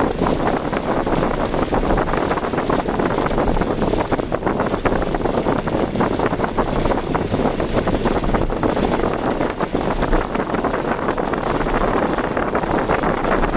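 Car driving, with a steady mix of engine, tyre and wind noise.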